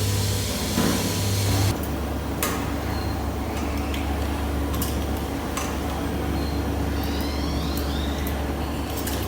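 Workshop machinery running with a steady low hum, with scattered sharp clicks and knocks; the hum shifts lower a little under two seconds in.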